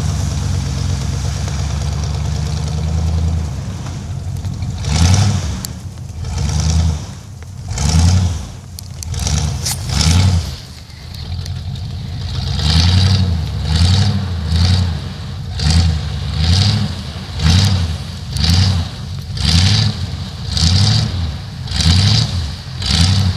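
Truck engine idling steadily, then from about four seconds in revving in repeated short surges, about one a second, each with a hiss of tires spinning in sleet and snow as the stuck truck is worked free.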